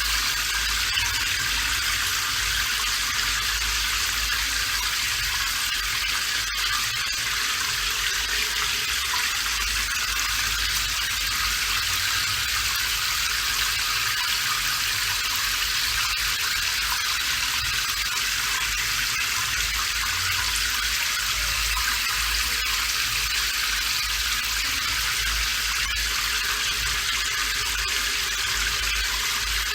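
Steady rain falling, an even hiss that holds unchanged throughout, with a faint low rumble underneath.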